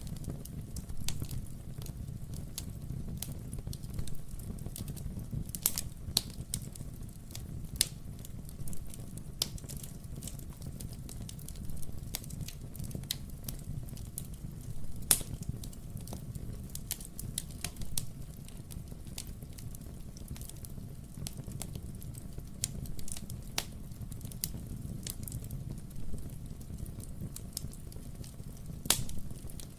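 Wood fire burning in a fireplace: a steady low rumble of flames with frequent small crackles and a few sharper pops of burning logs.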